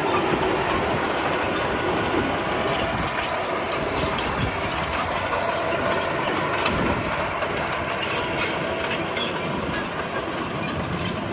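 Komatsu D31P crawler bulldozer working: steady diesel engine noise with the steel tracks clanking and rattling, and scattered sharp metallic clanks.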